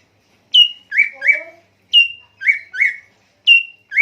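A songbird repeating a clear whistled three-note phrase about every second and a half. Each phrase is a sharp downslurred whistle settling on a held high note, followed by two quick upslurred notes lower down. A faint rising voice-like sound comes once, about a second in.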